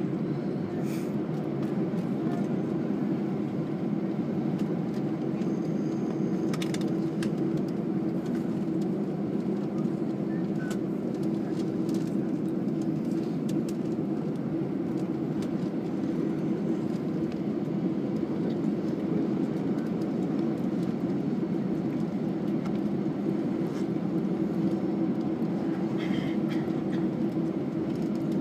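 Steady cabin noise of an Airbus A320 on the ground: a constant low rumble with a hum, and a few faint clicks.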